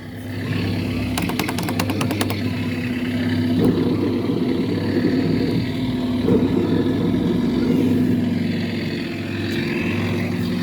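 Amutec red tractor kiddie ride running, with a steady engine-like rumble that swells now and then. About a second in there is a quick run of clicks.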